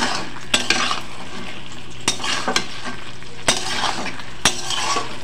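Boiled baby potatoes in thick masala sizzling as they fry in a kadhai, stirred with a metal spatula that clicks and scrapes against the pan about once a second.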